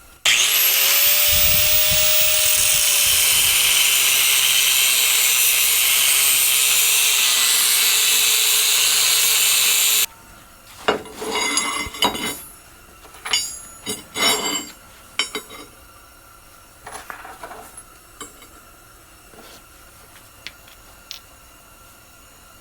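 Electric power tool cutting steel. The motor whines up to speed at the start, dips slightly and settles as it bites, under a loud, hissing grind. It stops abruptly about ten seconds in. After that come scattered clinks and knocks of steel pieces being handled.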